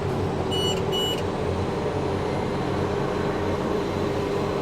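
Cummins diesel engine of a self-propelled sprayer running steadily, heard from inside the cab. Two short electronic beeps sound, about half a second apart, near the start.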